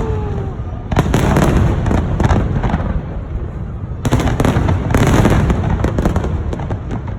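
Fireworks display going off: a constant low rumble of bursts with clusters of sharp crackling reports, densest about a second in and again around four to five seconds in.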